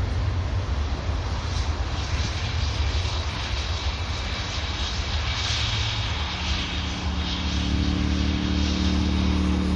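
Jet engines of a British Airways Airbus A319 landing: a steady rushing engine noise over a low rumble. About six seconds in, a steady low hum joins and the sound grows slightly louder.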